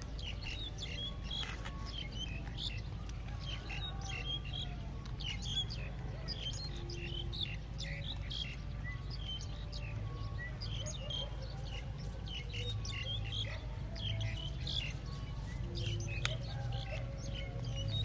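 Birds chirping all through, many short high calls overlapping, over a steady low hum.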